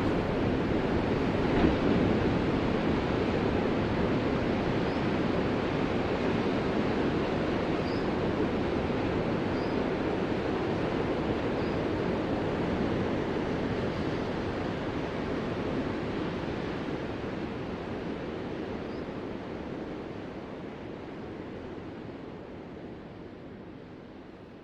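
Ocean surf: a steady wash of breaking waves that fades out gradually over the last ten seconds or so.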